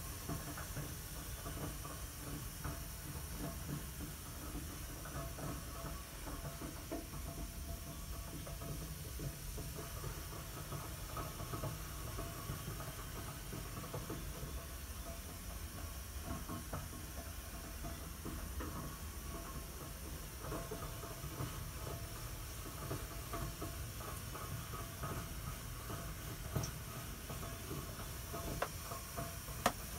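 Home heating boiler making a steady hissing noise over a low rumble, with scattered faint ticks and crackles and two sharper clicks near the end.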